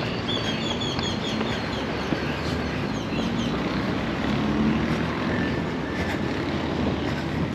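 City street traffic: a steady wash of vehicle noise with an engine hum that swells around the middle as a vehicle passes. In the first two seconds a bird gives a quick run of short, high, falling chirps.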